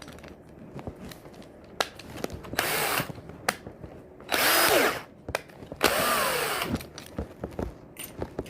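Electric drill run in three short bursts, each under a second, its motor pitch sagging as it bites; the drill bit is really dull.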